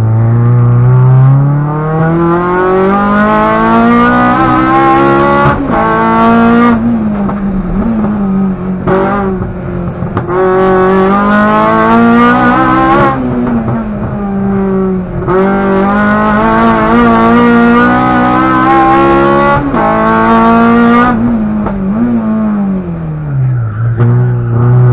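Honda K20 inline-four engine of a Civic EG6 race car, heard from inside the cabin, revving hard through the gears: the pitch climbs again and again, cut short by each upshift. Twice the revs fall away as the car slows for a corner, most deeply near the end, before it accelerates again.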